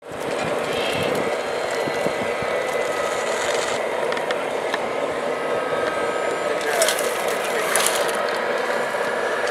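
Small electric motors and gearboxes of radio-controlled model trucks whirring steadily. Brief hissing bursts come about seven and eight seconds in.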